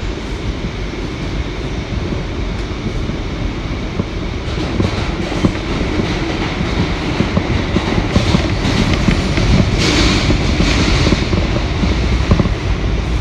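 An R179 subway train running through the tunnel, heard from inside the car: a steady rumble of wheels on rail with scattered clicks from rail joints. The rumble grows louder partway through, with a hissing, brighter stretch about ten seconds in.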